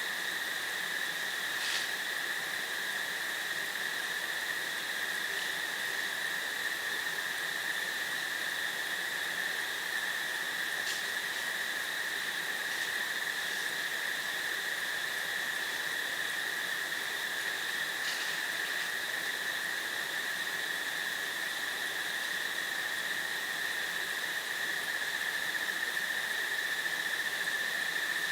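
Crickets trilling in a steady, unbroken high drone, with a few faint brief chirps over it.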